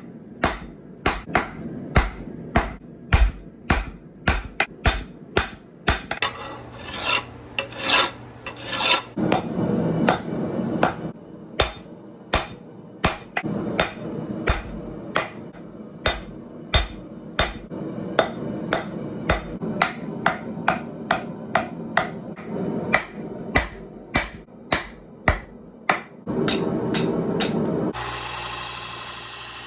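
Blacksmith's hammer striking hot steel on an anvil in a long run of sharp blows, about two to three a second, while a hot cut hardy is forged. Near the end the blows give way to a steady rushing noise.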